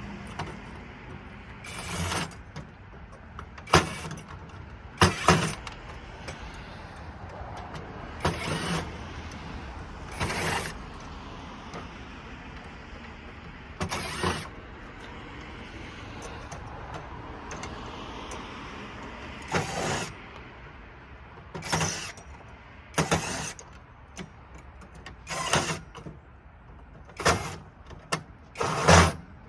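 Light sockets being taken apart for their brass: about a dozen short clacks and clatters of metal and plastic parts, one every one to few seconds, over a steady background noise.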